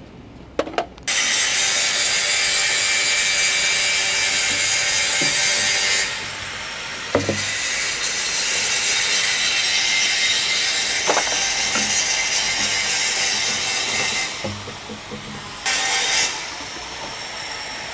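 Plastic pipe being sawn through, a steady rasping cut that pauses briefly twice, with a few sharp knocks.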